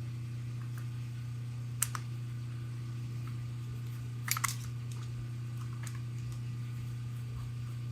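Small sharp clicks of flathead screws and a screwdriver against the small steel lock parts: one click about two seconds in, then a quick cluster of clicks just past four seconds, over a steady low hum.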